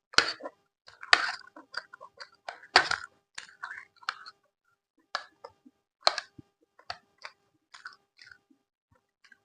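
Close-miked chewing with wet mouth clicks and crunchy bites, in irregular bursts. It is loudest in the first few seconds and sparser toward the end.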